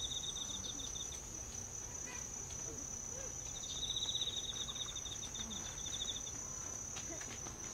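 Insects singing: one keeps up a steady high-pitched drone, while another gives a lower, pulsing trill that stops about a second in and sounds again for nearly three seconds in the middle.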